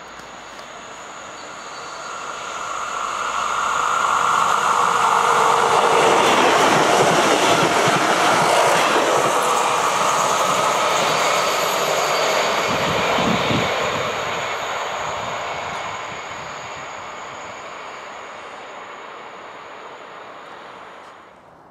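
Regio 2N double-deck electric multiple unit passing at speed: its rumble and wheel noise swell as it approaches, peak about a third of the way in with a clatter of wheels on the rails, then fade slowly as it moves away.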